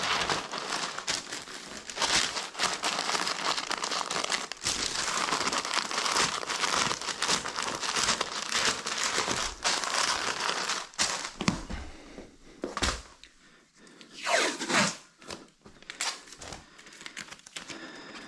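Paper crinkling and rustling steadily as it is handled, then in shorter separate rustles with pauses from about eleven seconds in.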